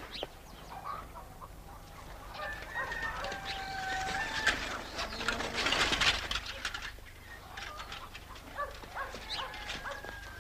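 Birds calling in short, held high notes, with scattered light knocks and a brief rustling swish in the middle.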